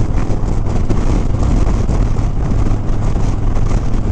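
Harley-Davidson Sport Glide's V-twin engine running steadily at highway cruising speed, mixed with wind rushing over the rider's microphone.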